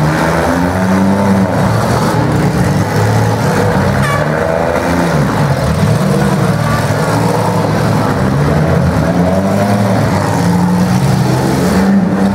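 Several demolition derby cars' engines running and revving together, their pitch repeatedly rising and falling as the drivers push against each other.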